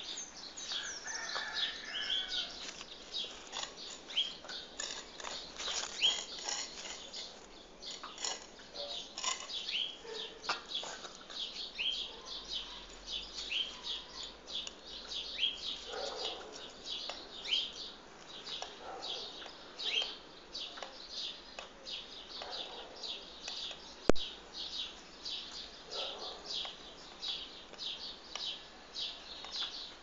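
Birds chirping continuously: rapid, short, high chirps in quick succession. A single sharp click about two-thirds of the way through is the loudest sound.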